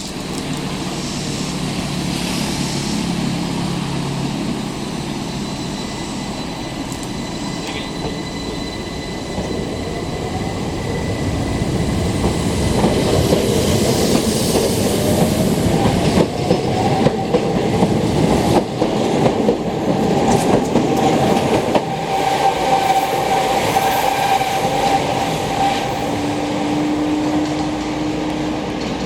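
Keihan Keishin Line electric train running on the rails. It grows louder about halfway through, with wheel noise and a whine that rises in pitch as it goes.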